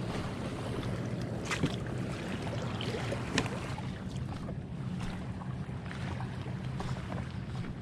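Steady wind buffeting the microphone, with scattered rustles and sharp clicks from camping gear being handled; two louder clicks come about a second and a half and three and a half seconds in.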